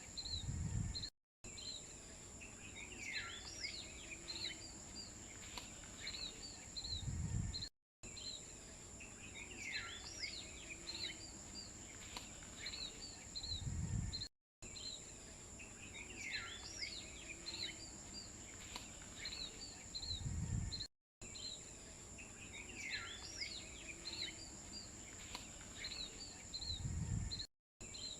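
Birds chirping over a steady high insect drone. The same few seconds repeat about every seven seconds, each time ending in a low rumble and then a brief cut to silence.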